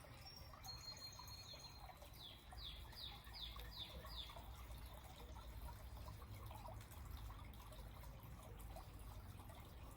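Near silence: faint background with a steady low rumble, and a short run of five faint descending chirps, about two a second, a couple of seconds in.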